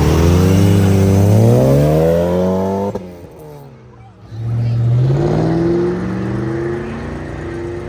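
Car engine accelerating hard, its pitch rising for about three seconds before it cuts off sharply. A second burst of engine acceleration builds from about four and a half seconds in and then settles to a steadier note.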